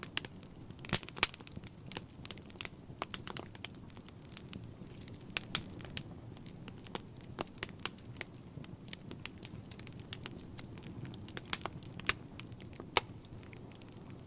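Wood fire crackling: irregular sharp pops and snaps over a steady low rumble of flames, with a few louder pops about a second in and near the end.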